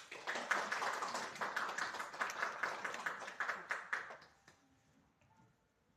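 Campfire crackling and popping in a dense run of rapid snaps that dies away about four seconds in.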